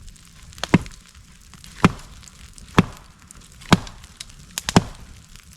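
Firewood being chopped and split: sharp chopping strikes about once a second, six in all, the last two in quick succession.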